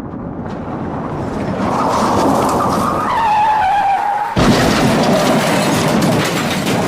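Car tyre screech and crash sound effect: a car approaches and its tyres squeal for a few seconds, falling slightly in pitch. About four seconds in comes a sudden loud crash, followed by continuing crashing and clattering noise.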